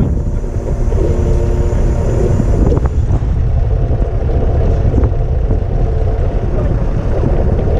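Strong wind buffeting the microphone as a loud, fluctuating low rumble, over a running truck engine with a steady hum.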